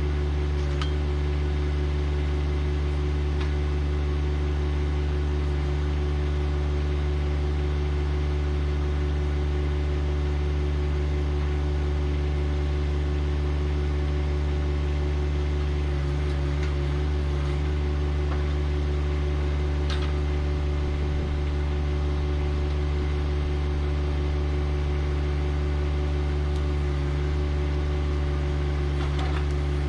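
John Deere 1025R compact tractor's three-cylinder diesel engine running steadily, with a few faint ticks now and then.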